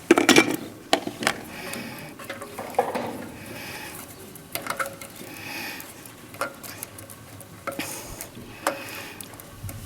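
Metal clinks, taps and knocks of parts and hand tools being handled while the terminal box cover of an electric motor is fitted and fastened, with a louder clatter right at the start.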